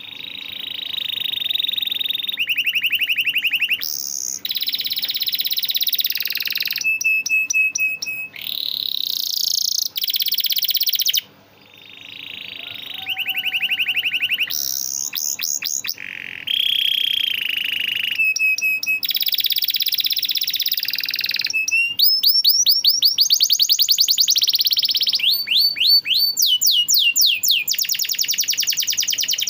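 Domestic canary singing a long, continuous song, phrase after phrase of fast trills and rolls with short chirps between them. There is a brief pause about eleven seconds in.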